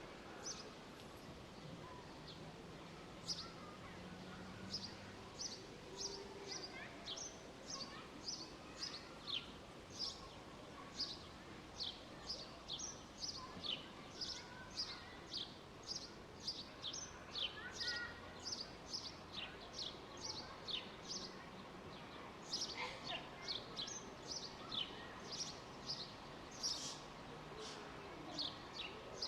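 Park ambience: small birds chirping over and over in short, high, falling chirps, one or two a second, over a steady low background noise.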